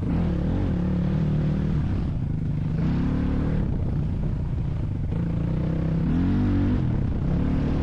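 A vehicle engine running steadily, its revs rising and falling several times, as when driving over rough ground.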